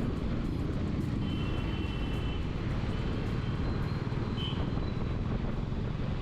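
Steady wind and road rumble of a motorcycle riding at speed, with faint high thin tones briefly a second or so in.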